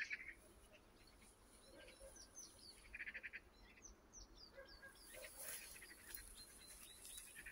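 Faint songbird chirps in the background, with a short rapid trill about three seconds in.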